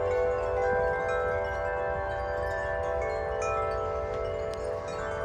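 Several Corinthian Bells wind chimes, large tuned metal tubes, ringing in the wind: many overlapping long-sustained tones that blend and change, over a low steady rumble.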